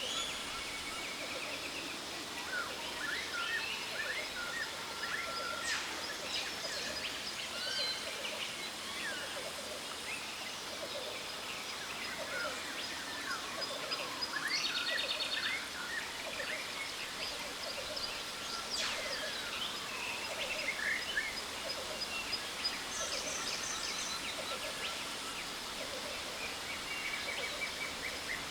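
Jungle waterfall rushing steadily under a chorus of many birds chirping and calling, with a fast trill about halfway through and a faint steady high whine.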